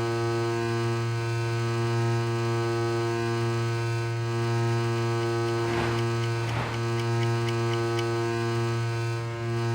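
A steady, unchanging low hum with many overtones, crossed by two brief sweeping swishes about six seconds in.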